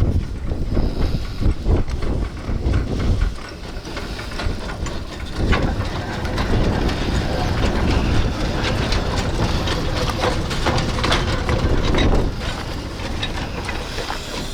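Sugar-railway narrow-gauge steam locomotive No. 346 running during shunting, with hissing steam and wheels clicking on the rails. A heavy low rumble, likely wind on the microphone, dominates the first few seconds; the hiss and clicking get busier about five seconds in.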